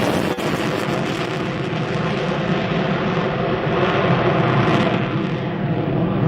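Jet noise from a Boeing EA-18G Growler's twin turbofans, running steadily through a slow, minimum-speed pass. The highest hiss fades a little about a second and a half in.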